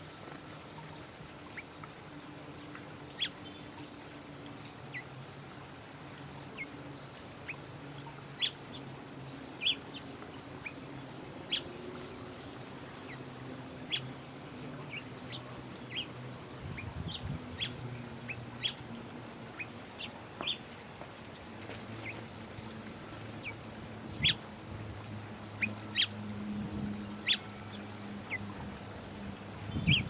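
Wild birds chirping, short single chirps scattered irregularly, over a low droning hum that grows louder in the second half.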